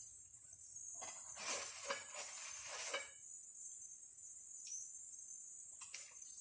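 Steady high-pitched insect chorus, with a couple of seconds of rustling noise starting about a second in.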